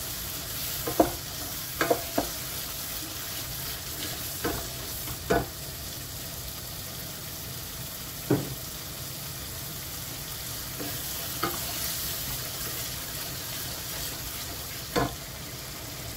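Red chili and tomato-sauce paste frying with a steady sizzle in a saucepan, with a wooden spatula knocking against the pot a few times.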